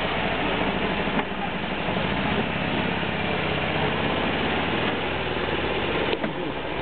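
Volkswagen Kübelwagen's air-cooled flat-four engine running steadily as the open car drives along, heard from inside the car. There are two sharp clicks, about a second in and near the end.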